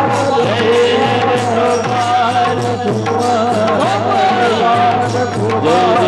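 Devotional bhajan music: a wavering, gliding melodic line, sung or drawn out on an accompanying instrument, over a sustained low drone, with a steady beat from drum and jingling hand percussion.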